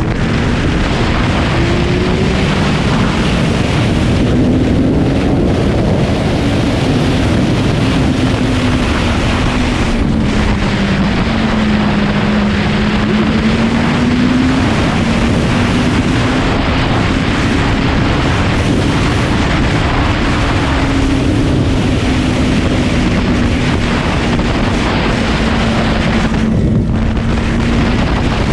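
Honda CBR motorcycle under way, its engine note drifting up and down gently beneath heavy wind rushing over the microphone.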